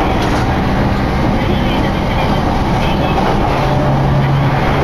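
Running noise of an electric train heard from inside the passenger car: a steady rumble of wheels on rails. A low steady hum comes up more strongly near the end.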